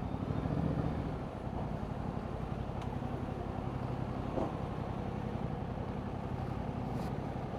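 Yamaha MT-07's 689 cc parallel-twin engine running steadily at low revs through its stock exhaust, briefly a little louder about half a second in.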